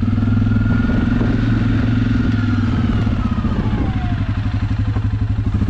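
Suzuki KingQuad ATV's single-cylinder engine running under way, with a whine that falls in pitch about three seconds in as it slows. After that the engine settles to lower revs and its separate firing pulses can be heard.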